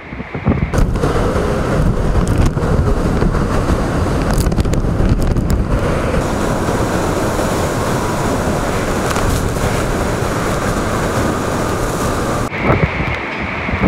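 Typhoon-force wind blowing hard and buffeting the microphone: a loud, steady rush of noise with many gust hits, which drops away suddenly near the end.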